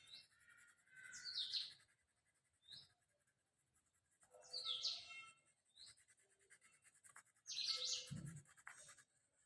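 A bird chirping in short high calls, three bouts about three seconds apart, with faint scratching of colour being laid on paper between them.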